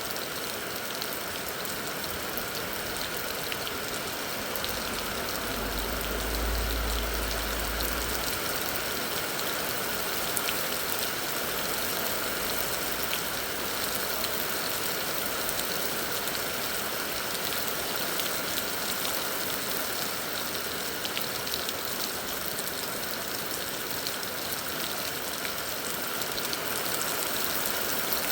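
Heavy rain falling: a steady, even hiss with scattered patters of drops. About six seconds in there is a low rumble lasting a couple of seconds.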